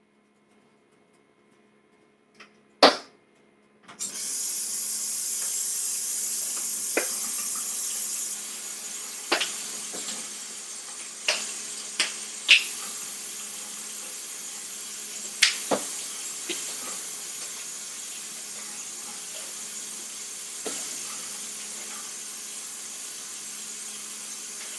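Spice containers handled while seasoning chicken: scattered sharp clicks and taps of caps and shakers, two near the start and more every second or two later. From about four seconds in they sit over a steady hiss.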